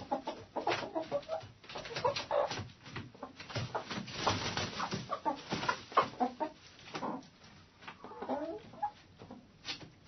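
Hens clucking inside a hen house: many short overlapping clucks and calls from several birds, with scratching and small knocks among them.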